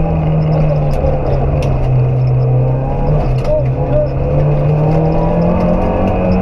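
Rally car engine heard from inside the cabin at stage speed, running hard with steady road and tyre noise. Its pitch sags a little about two seconds in, then climbs again as the car accelerates, with a few short knocks along the way.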